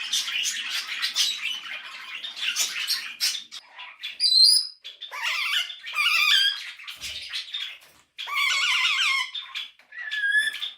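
Pet parrots chattering, chirping and squawking, with a loud high whistle about four seconds in and stretches of rapid warbling.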